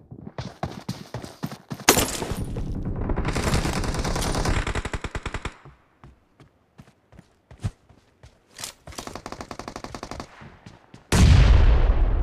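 Video game gunfire: rapid automatic fire for the first five seconds or so, then scattered single shots, and a loud bang about eleven seconds in.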